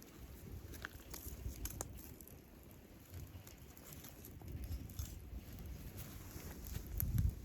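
Wood campfire crackling, with scattered sharp pops over a low rumble that swells and fades, loudest just before the end.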